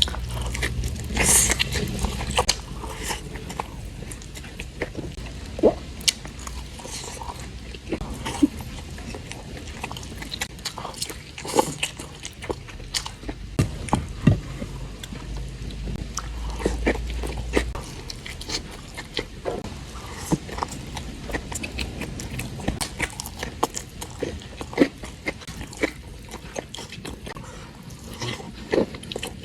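Close-miked chewing and mouth sounds of someone eating ayam penyet, smashed fried chicken with shrimp-paste sambal: wet smacks and irregular sharp clicks throughout.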